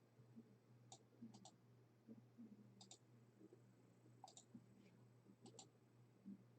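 Near silence with a dozen or so faint, short clicks scattered through it, several in quick pairs.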